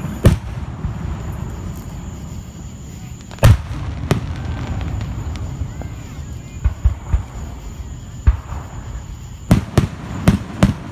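Fireworks going off: sharp bangs with a low rumble rolling on between them. There is a single bang right at the start, two more a few seconds in, and a quick run of several bangs near the end.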